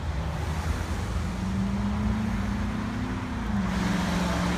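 Road traffic: a low vehicle rumble with an engine hum that comes in about a second in, and a rising hiss of road noise near the end.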